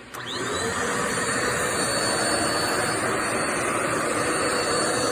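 Dirt Devil Multi-Surface+ upright bagless vacuum cleaner switched on with a click, its motor spinning up with a quick rising whine. It then runs steadily: a loud rush of air with a thin high whine over it.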